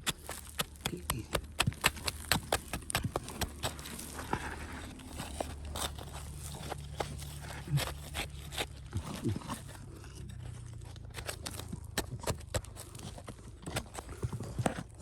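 Rocks and gravel being dug through and handled: a dense run of irregular clicks, knocks and crunches, with a low drone underneath for a few seconds in the middle.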